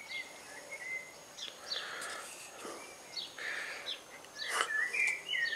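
Garden birds singing: repeated short, high chirps that drop in pitch, mixed with a few brief whistled notes.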